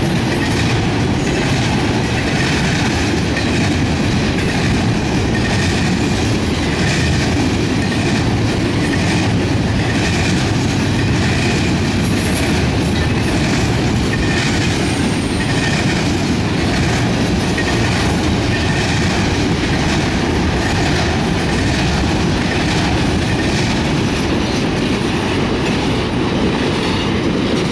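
Intermodal freight train of flatcars carrying highway trailers rolling past close by: a steady rumble of steel wheels on rail with rhythmic clicking over rail joints and now and then a brief high wheel squeal.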